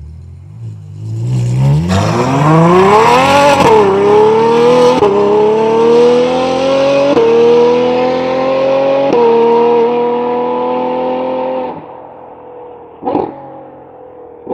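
Ferrari 812 Superfast's naturally aspirated 6.5-litre V12 through a titanium Baq exhaust, pulling hard from a low idle with a rising howl. Its pitch drops back briefly three times and climbs again, as at gear changes. About twelve seconds in the throttle closes, and two short sharp throttle blips follow.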